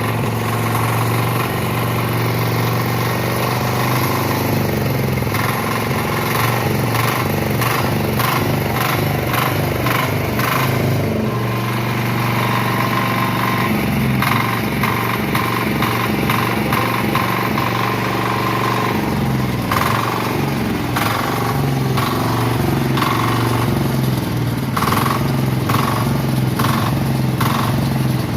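Small single-cylinder power weeder engine running steadily, with a strong low hum whose pitch shifts slightly a few times and irregular knocks on top.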